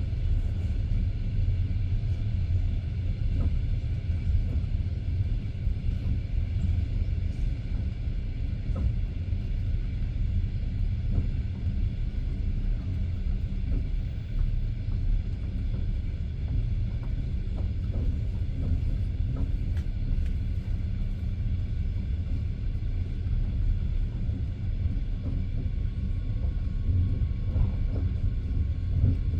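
Passenger train running between stations, heard from inside the carriage: a steady low rumble of the wheels on the rails with faint scattered knocks.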